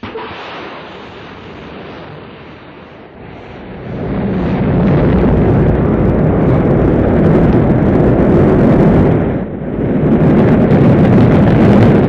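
Rocket launch roar: a loud, rumbling noise that starts suddenly and swells about four seconds in, staying loud with a brief dip near three-quarters of the way through.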